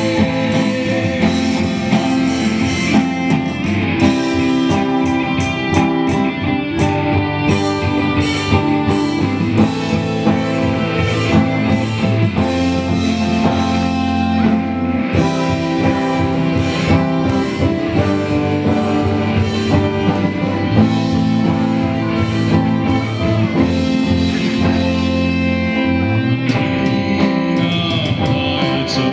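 Live band music with electric guitar prominent over sustained chords and a beat; an instrumental passage with no singing picked out.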